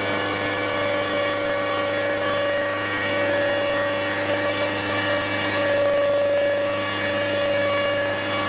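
CNC stone router's spindle running steadily on quartz stone, a constant high machine whine over a low rumble.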